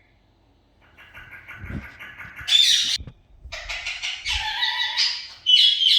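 Pet budgerigar chattering: a rapid, continuous warble of chirps and squawky notes that starts about a second in, pauses briefly about halfway, then runs on.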